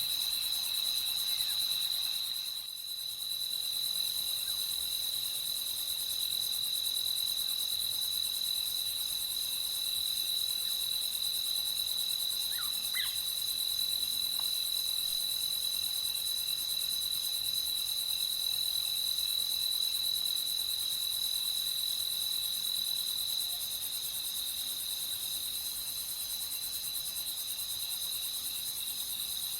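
Night chorus of crickets, a continuous high-pitched trill that dips briefly about three seconds in. A few faint short chirps come through about halfway.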